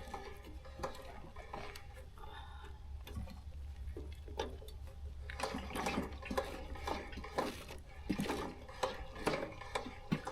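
Used engine oil being poured into plastic bottles, with scattered knocks and clatter from handling the containers, busier in the second half.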